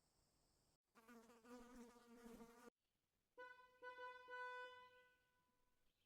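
Two short buzzing animal sounds with a silent gap between them: the first, about a second in, wavers in pitch; the second, near the middle, is a steadier, higher whine.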